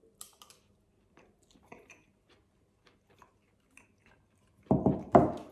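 A person chewing a mouthful of pan-sautéed toasted sandwich bread and minced beef, with faint crunches and mouth clicks. Near the end, two short loud bursts of the eater's voice break in.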